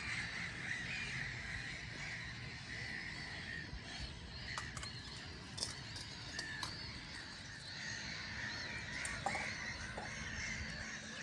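Birds calling over and over, with many short, arched calls like the caws of crows. A few faint clicks fall near the middle.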